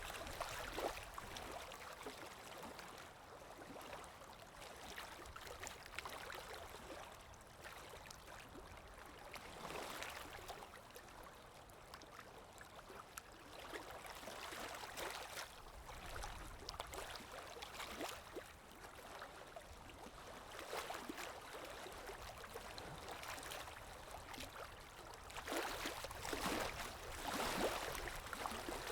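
Gentle river water rippling and lapping, faint, swelling louder every several seconds and most strongly near the end, with small scattered splashy ticks.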